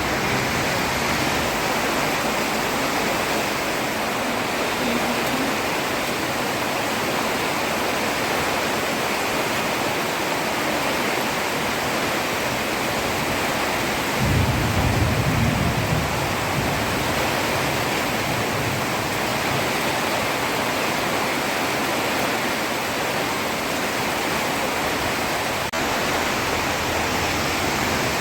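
Heavy rain falling steadily on a road, a dense even hiss. A brief low rumble rises and fades about halfway through.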